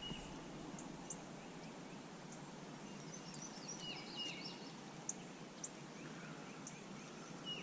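Faint birdsong outdoors: thin, high chip notes repeating about once a second, a short whistled note that drops in pitch (heard twice), and a brief jumble of high notes in the middle. A steady soft rushing noise runs underneath.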